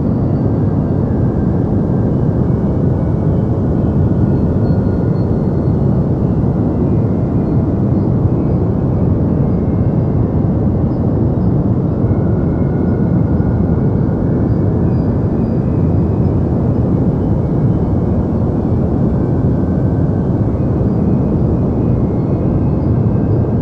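Deep white noise for sleep: a steady, even hiss-rumble weighted toward the low end, with no changes in level.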